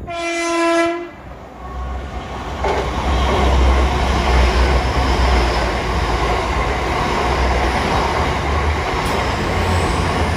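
LNER Class 800 Azuma express train sounding one blast of its horn, about a second long, as it approaches. It then passes through the station at speed with a steady low rumble and rushing wheel noise, loudest as the coaches go by.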